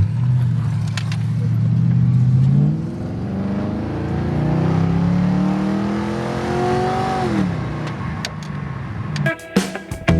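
Car engine pulling steadily, then revving up in a long rising pitch for about five seconds as the car accelerates, and dropping off suddenly about seven and a half seconds in. Guitar music comes in near the end.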